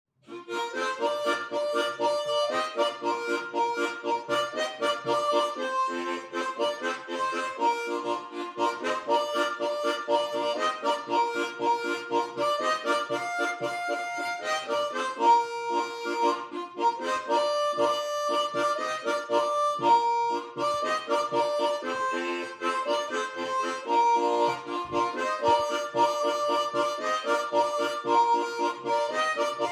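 A harmonica playing a lively melody of short, quickly changing notes.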